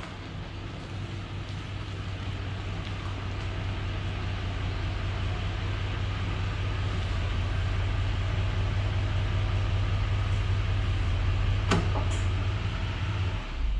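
A road vehicle running, a steady low hum under road and wind noise that slowly grows louder, with one sharp click near the end before the sound cuts off suddenly.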